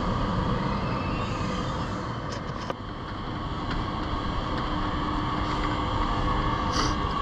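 Electric multiple-unit commuter train running past, a steady rumble with a constant high hum from its electric traction equipment. A single sharp click about three seconds in.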